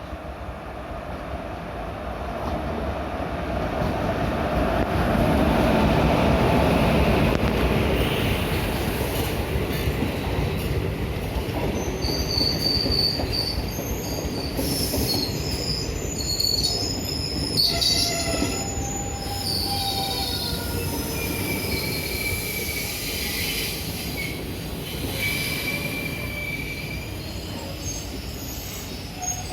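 Passenger train of old ICF coaches braking, its wheels rumbling louder over the first few seconds as it comes in. From about ten seconds in, the brakes and wheels squeal in several high, wavering tones that go on until the end.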